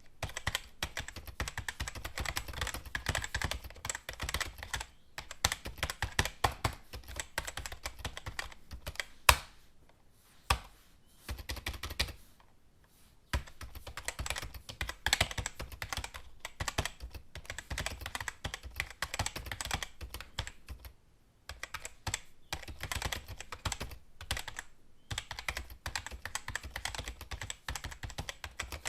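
Typing on a computer keyboard: fast runs of keystroke clicks, broken by a few short pauses, with a single louder key strike about nine seconds in.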